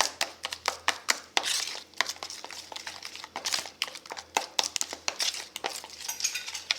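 Raw chicken being mixed through a spice marinade: a quick, irregular run of short clicks and squishes, several a second.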